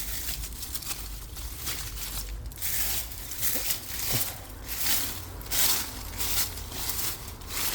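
Irregular rustling and crinkling of leaves and plant stems being handled, in short uneven bursts.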